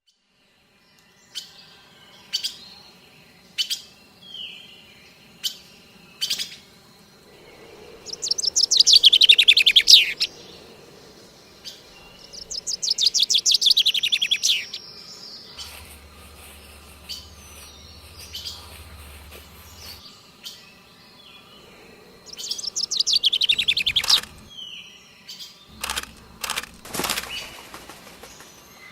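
A small songbird chirping: several short, sharp chirps, then three long, rapid trills that fall in pitch, about 8, 13 and 23 seconds in, the first the loudest. Near the end comes a quick run of sharp clicks and a short rustling burst.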